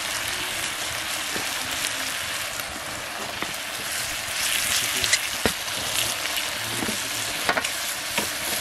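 Pork curry frying and sizzling in a pan with a steady hiss. It is stirred, and the spoon knocks sharply against the pan several times, loudest a little past halfway.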